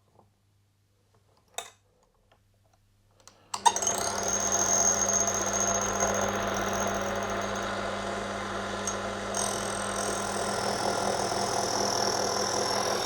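A few light clicks, then about three and a half seconds in a small bench lathe starts up and runs steadily, its motor humming with a high whine.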